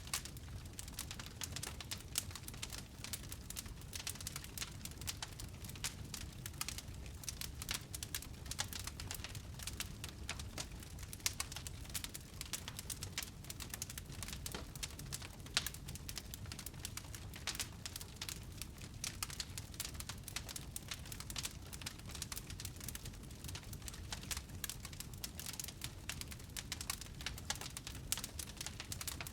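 Wood fire crackling: a dense stream of small pops and snaps over a low rumble of flames, with a few sharper pops standing out.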